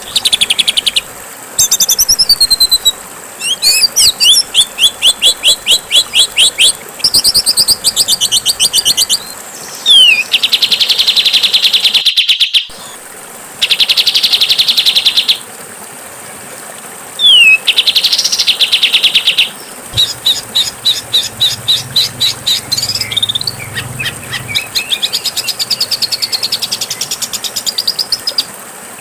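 Songbird song edited together as a bird-training track: phrases of fast repeated notes, trills and harsh buzzy rattles follow one another with short gaps, over a steady faint hiss.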